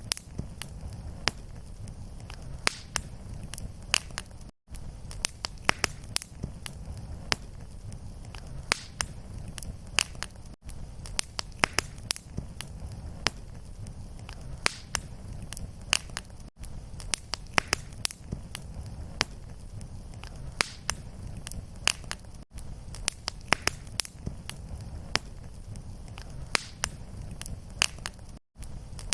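Wood fire crackling in a fireplace: a steady low rumble of flame under frequent sharp pops and snaps. The sound drops out briefly about every six seconds.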